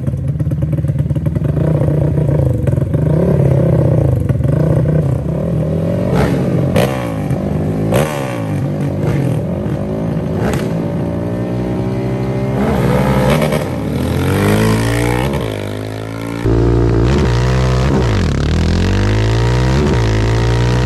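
Two sport ATV engines at full throttle in a drag race. Their pitch rises and drops again and again as each one shifts up through the gears.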